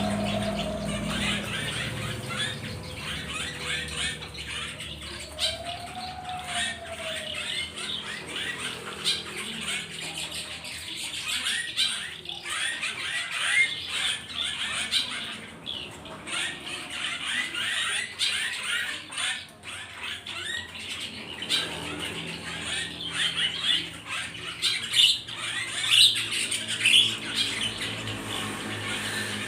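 A group of trapped wild forest birds chirping and squawking constantly, many short high calls overlapping.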